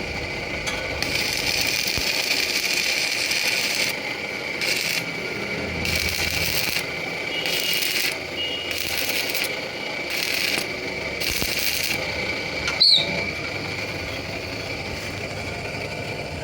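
Lathe spinning a steel truck axle with a steady high whine, while a hand-held cutting tool scrapes the turning metal in repeated short strokes; one sharp click near the end.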